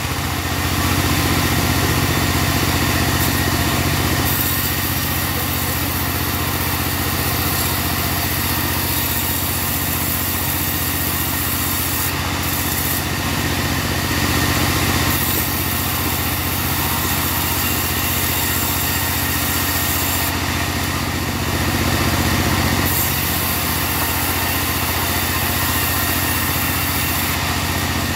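Engine-driven portable bandsaw sawmill running steadily while sawing a log, with a few slight swells in loudness.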